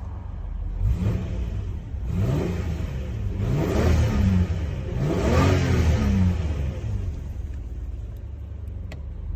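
Nissan Crew taxi's RB-series inline-six engine, just started, idling and blipped several times, each rev rising and falling back before it settles to a steady idle.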